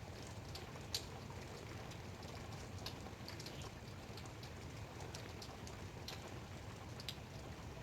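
Light rain falling, a steady soft hiss with scattered individual drops ticking, one sharper drop about a second in.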